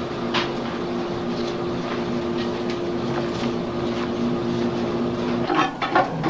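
Steady drone of a patrol boat's engines heard from inside the hull, a low hum of held tones with a few light knocks. The hum cuts off abruptly near the end.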